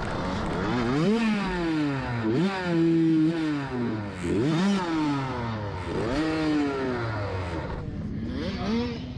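Motocross dirt bike engine revving up and falling back repeatedly, about five times, as the throttle is opened and shut through a lap of the track.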